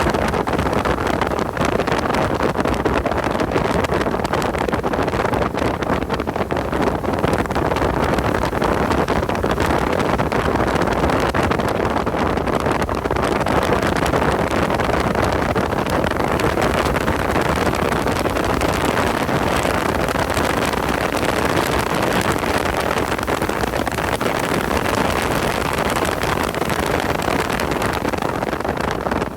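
Car engine running at speed on a race track, mixed with heavy wind noise on the microphone; the level stays steady with no clear gear changes or pauses.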